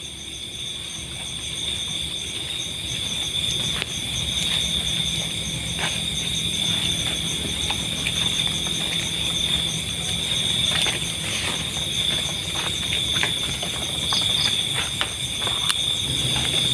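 Night insects, crickets, chirring in a steady high-pitched chorus, with scattered faint clicks and crackles over it.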